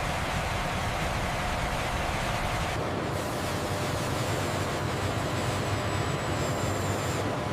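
Steady factory machinery noise: a dense hiss over a low rumble. About three seconds in it shifts to a deeper rumble, and a faint high whine runs for a few seconds near the end.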